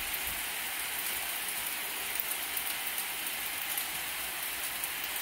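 Shrimp fried rice sizzling steadily in hot pans, with small pops and crackles, as soy sauce is poured over it.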